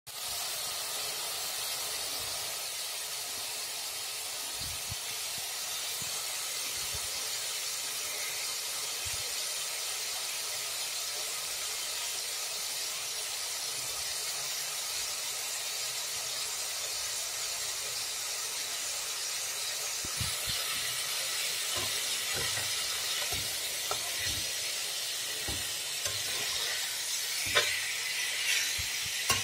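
Pieces of shark frying in a pan, sizzling with a steady hiss. Crackling pops come more often from about twenty seconds in, and a spatula knocks against the pan near the end.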